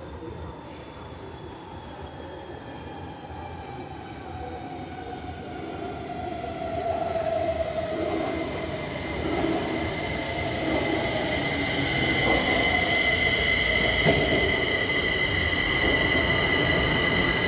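Kaohsiung Metro Red Line train coming in and braking. Its motor whine falls steadily in pitch as the train grows louder, and a steady high-pitched whine carries on over the last few seconds.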